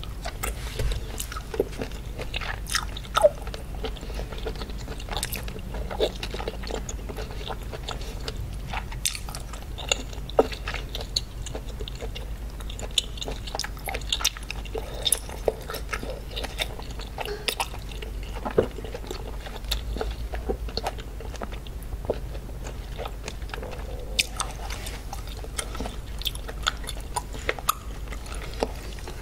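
Close-miked chewing of a mouthful of octopus: many small, irregular mouth clicks as it is worked between the teeth.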